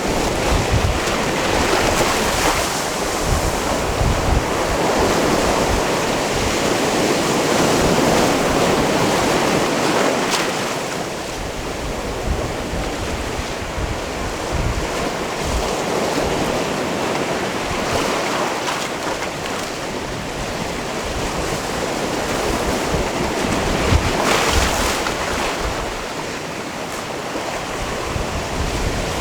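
Sea waves washing onto a rocky shore, the surf swelling and easing every several seconds, with wind buffeting the microphone in low rumbles.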